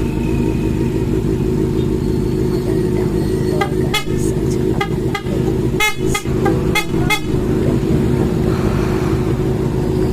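Honda 400 cc motorcycle engine running steadily, with about eight short horn toots in the middle.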